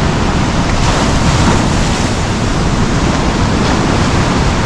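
Rough ocean surf washing in at the shoreline, a steady rush of water that swells a little about a second in, with wind buffeting the microphone.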